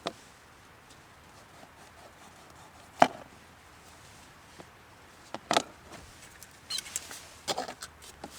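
A few sharp, irregular knocks on wood, as in chopping: the loudest about three seconds in, with a quick run of lighter knocks near the end.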